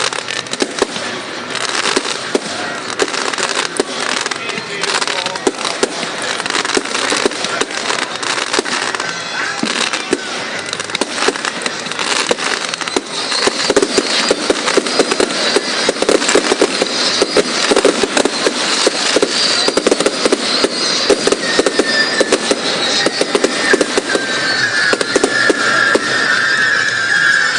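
Fireworks display: a continuous barrage of crackling and popping shells that grows denser and louder about halfway through. A high, steady whistling tone joins in the last few seconds.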